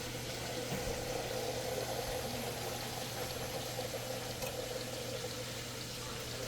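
Electric hair clippers buzzing steadily during a home haircut, with a constant hum under a hiss, switching off abruptly at the very end.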